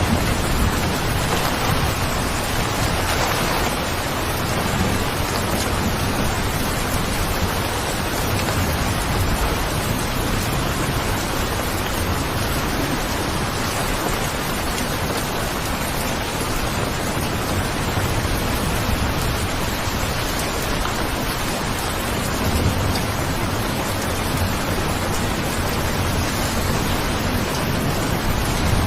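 Steady rain falling, an even hiss with a low rumble that swells slightly near the start and again about two-thirds of the way through.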